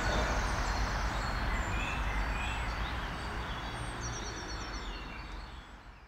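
Small garden birds calling, short high chirps and trills scattered throughout, over a steady background rumble. The whole sound fades out near the end.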